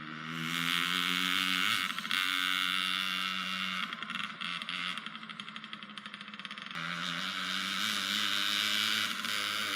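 Small off-road vehicle engine revving up and holding, easing off about four seconds in, then revving up again near seven seconds.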